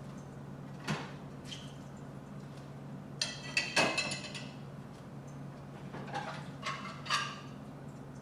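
Plates being set into a dishwasher's bottom rack: scattered clinks and knocks of dishes against the rack, in clusters about a second in, around three to four seconds in and around six to seven seconds in, over a steady low hum.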